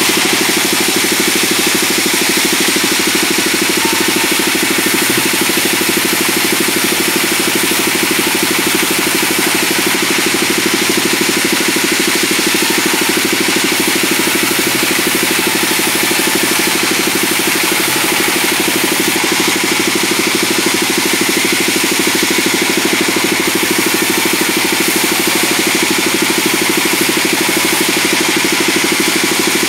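Sawmill band saw running steadily, a constant machine hum with a hiss above it and no change in level throughout.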